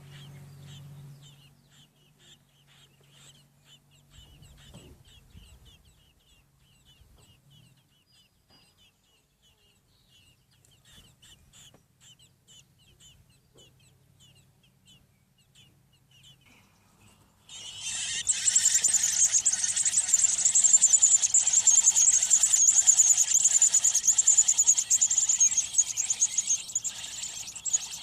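American robin nestlings peeping. Faint, rapid high peeps run on for a while, then about two-thirds of the way in a loud, shrill begging chorus suddenly breaks out and continues, as the chicks call to be fed.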